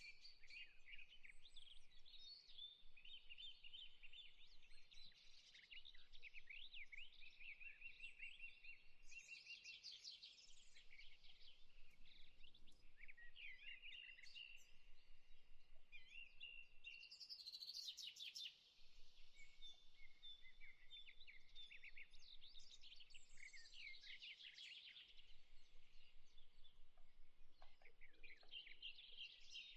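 Faint chorus of small songbirds: many overlapping chirps, trills and short whistled notes.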